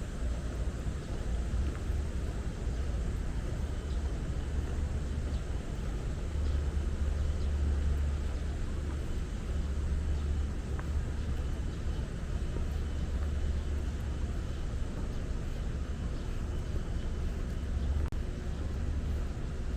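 Steady outdoor city background: a constant low rumble with an even hiss over it and no distinct single sounds.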